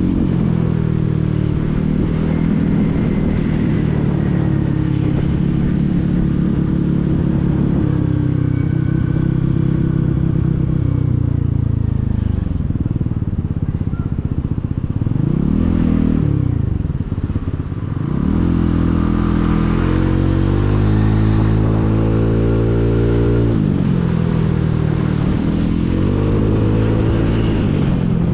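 Motorcycle engine under way, its revs falling and climbing several times as it eases off and accelerates through the gears. The pitch drops lowest about two-thirds of the way through, then climbs steadily.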